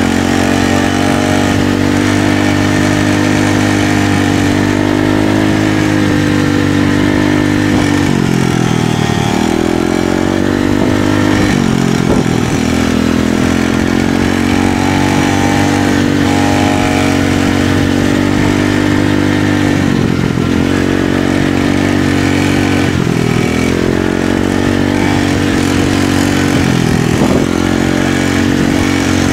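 Small pit-bike-class motorcycle engine running hard on a dirt track, holding a steady high pitch, with the throttle shut and reopened about five times, the pitch dropping and climbing back each time.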